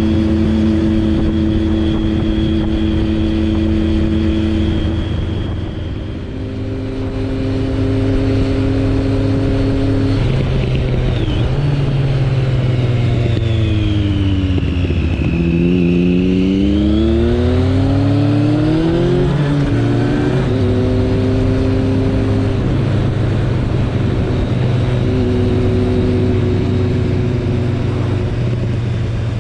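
Suzuki Bandit 1200's inline-four engine running steadily under way. About halfway through, the engine note falls as the bike slows and then climbs again as it accelerates before settling back to a steady pitch.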